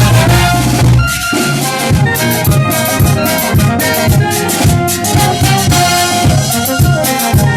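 Brass band playing: trumpets and trombones over a steady drum beat, with a short break about a second in before the beat picks up again.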